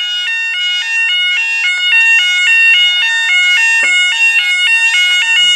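Railway level crossing warning alarm sounding: an electronic warble stepping back and forth between tones in a fast, even, repeating pattern.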